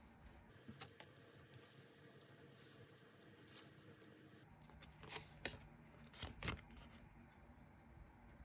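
Faint handling of tarot cards: a few soft scrapes and sharp clicks as cards are moved and set down, over a low room hiss, with most of the clicks clustered past the middle.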